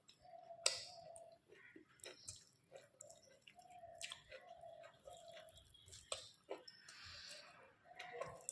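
Someone chewing a mouthful of rice and fish curry: soft, wet chewing with frequent sharp lip-smacking clicks.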